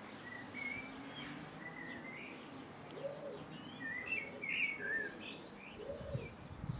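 Small birds chirping and twittering in short, high calls scattered throughout, over a steady outdoor background noise.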